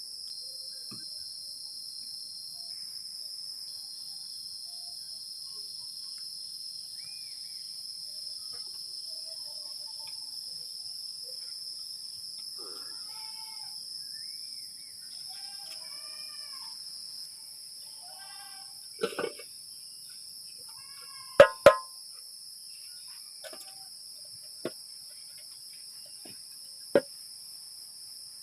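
Steady high-pitched chorus of forest insects, crickets or cicadas, with a bird chirping in repeated short arching calls around the middle. In the second half come a handful of sharp knocks, two of them close together and the loudest.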